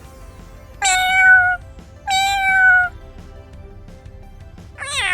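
Domestic cat meowing: two meows of under a second each, a second apart, with a third starting right at the end, over soft background music.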